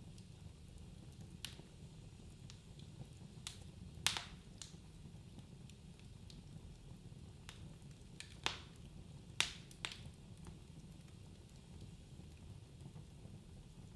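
Wood fire burning in a fireplace: a low steady rumble of the flames with scattered sharp crackles and pops, the loudest about four seconds in and a cluster of three around nine to ten seconds in.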